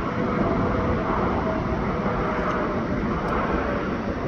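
Jet airliner's engines, a steady rumble with faint whining tones, fading slightly near the end.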